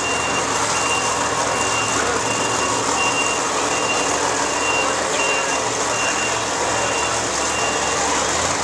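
A vehicle's reversing alarm beeping steadily about once a second, stopping near the end, over the low rumble of a running engine.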